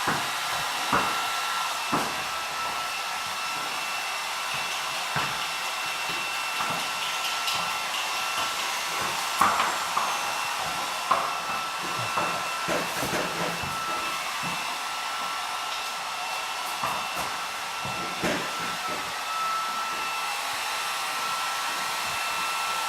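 Electric hair dryer running steadily: a continuous blowing hiss with a steady whine. A few short knocks and taps sound through it.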